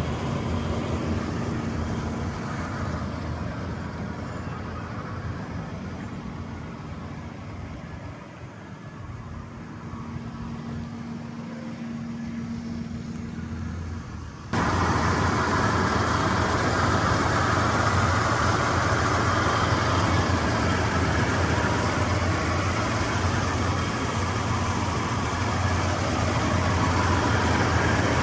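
2004 Toyota Tundra engine idling steadily. About halfway through, the sound abruptly jumps louder and fuller.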